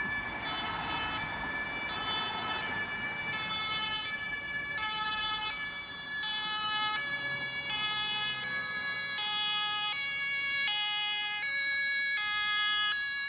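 Emergency vehicle siren sounding two alternating tones, switching about twice a second, over road noise.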